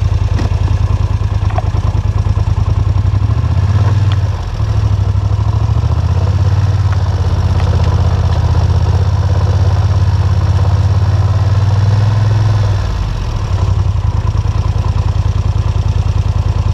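ATV (four-wheeler) engine running, heard up close. The throttle eases off briefly about four seconds in and again near the end.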